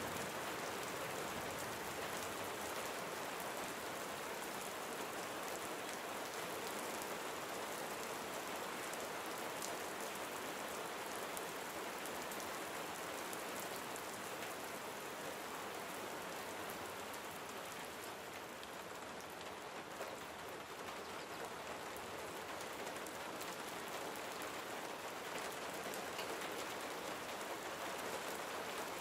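Gentle steady rain falling on a surface, an even hiss with fine pattering drops throughout.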